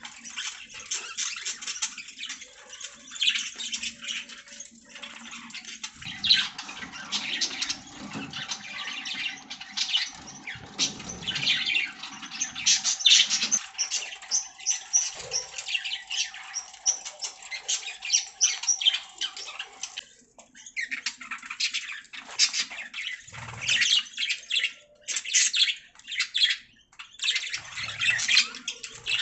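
Budgerigars chirping and warbling in a dense, rapid chatter of short high chirps, with a few brief pauses near the end. A faint steady tone runs beneath the chatter through much of the middle.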